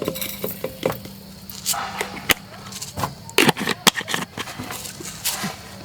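A run of clinks, knocks and scrapes from camp cooking gear being handled, with the loudest knocks about three and a half seconds in.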